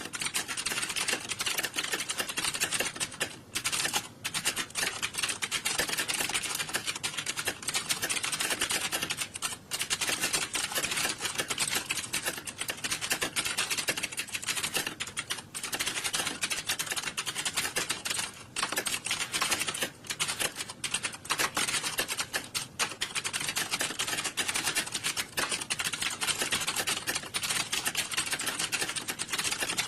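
Many computer keyboards being typed on at once, as in a hall full of people typing: a dense, continuous clatter of overlapping keystrokes.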